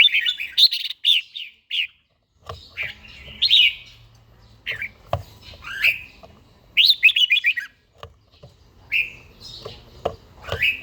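Red-whiskered bulbul singing a series of short, quick warbling phrases, with a brief pause about two seconds in.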